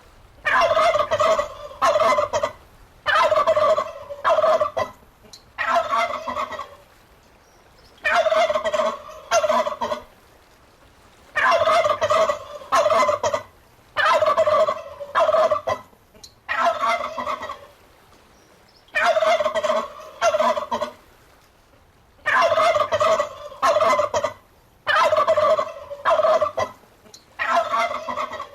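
Turkey gobbling over and over, about a dozen rattling calls of one to two seconds each with short pauses between them.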